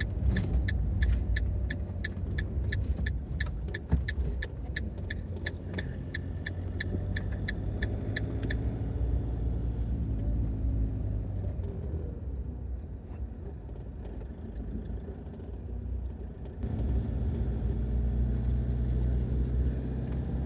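A campervan's turn indicator ticking evenly, a little over twice a second, over the low rumble of the engine and road heard from inside the cab, signalling a left turn. The ticking stops about eight seconds in, and the engine grows louder again near the end as the van pulls away.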